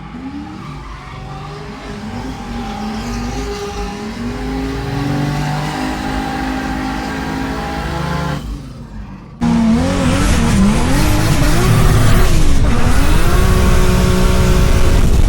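Drift car's turbocharged 2JZ inline-six, swapped into a Hyundai Genesis Coupe, revving up and down repeatedly through a drift, with tire squeal. About nine seconds in, the sound jumps suddenly much louder, with more tire noise and the revs still swinging.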